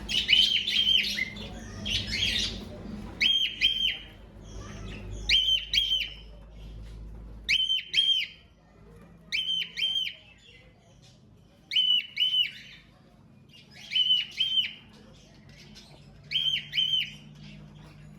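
Cockatiels calling: short, high chirped notes in pairs or threes, repeated about every two seconds, with denser calling in the first few seconds.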